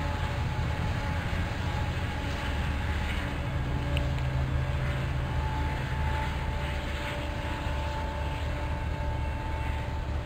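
Steady low rumble of a distant train approaching along the track, with faint steady tones above it.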